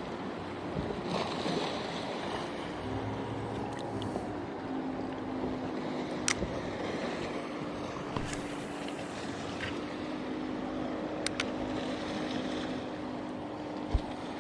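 Small waves washing at the shoreline and wind on the microphone. A steady low hum joins in about three seconds in, and there are a few sharp clicks.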